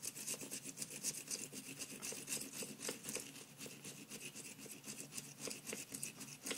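Fresh ginger rubbed back and forth on a Japanese grater in quick, rhythmic rasping strokes, about four to five a second, grating it to squeeze out the juice.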